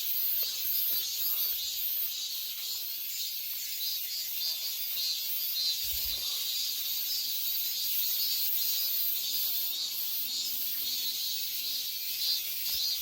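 Cicadas singing in chorus: a dense, high, continuous buzz with a pulsing rhythm in it.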